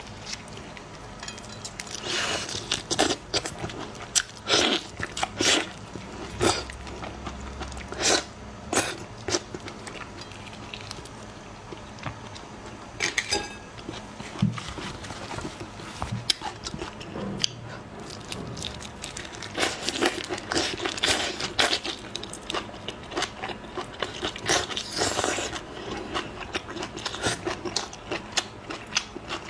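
Close-miked eating of shrimp: irregular crunching bites and chewing, thickest in clusters early on and again in the second half.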